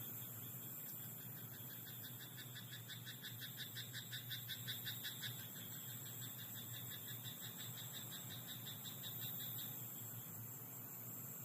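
A frog calling in a rapid series of short pulses, about nine a second, for some four seconds, over a steady high hiss of night background sound in a rice paddy.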